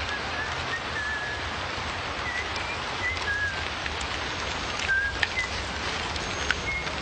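Short bird chirps over a steady rushing hiss, with a few sharp clicks a little past the middle.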